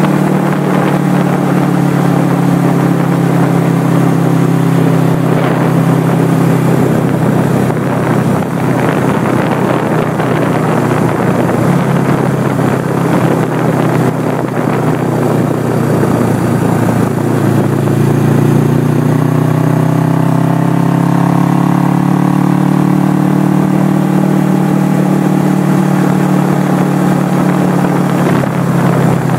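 A 1979 Suzuki GS425L's air-cooled parallel-twin engine runs at road speed under a rush of wind. About two thirds of the way in, the engine note rises steadily as the bike accelerates, then holds level.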